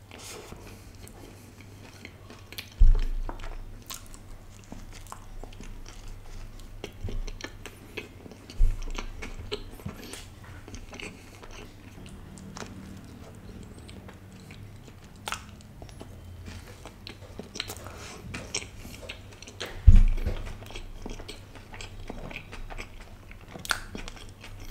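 Close-miked biting and chewing of a paneer sandwich with lettuce, tomato, onion and bell pepper: wet chewing sounds with many small crunches. A few dull low thumps stand out, the loudest about three seconds in and about twenty seconds in.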